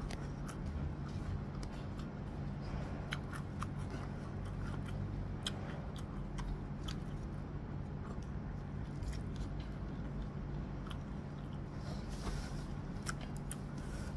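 Close-up eating sounds: a person chewing mouthfuls of nasi lemak, with short wet mouth clicks and smacks scattered throughout. A steady low hum runs underneath.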